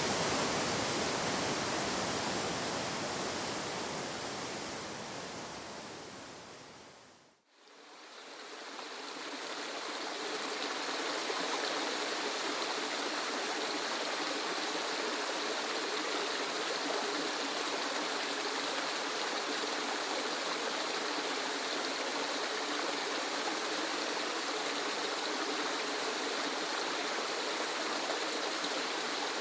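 Rushing waterfall noise fades out to almost nothing about seven seconds in. A second waterfall recording then fades in and holds steady; it is thinner, with little low rumble.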